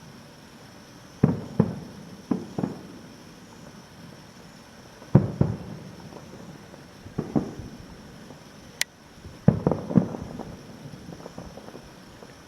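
Aerial firework shells bursting at a distance: about ten dull booms with rumbling tails, coming in three clusters. There is one sharp click between the second and third clusters.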